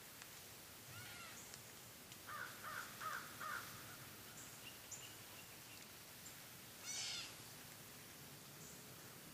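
Wild birds calling in forest: a run of four or five quick notes about two seconds in, and a short burst of fast, high chirps about seven seconds in, with scattered faint chirps between.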